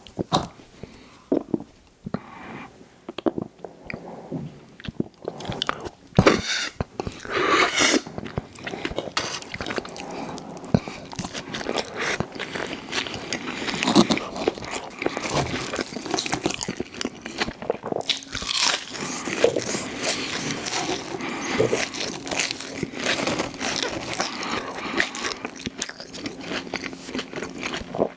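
A person chewing and biting crunchy food close to the microphone, a steady run of crunches and mouth sounds with a few louder crunches standing out, the first about six seconds in.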